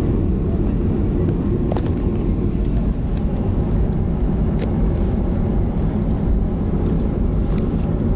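Steady low rumble inside the cabin of a Boeing 737-300, its CFM56 jet engines and airflow heard from a seat by the wing.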